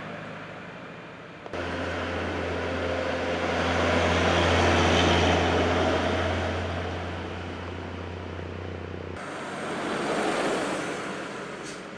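Road traffic passing: a heavy vehicle with a steady low engine drone swells up and fades as it goes by about five seconds in. Then another vehicle passes near the end, and the sound changes abruptly twice.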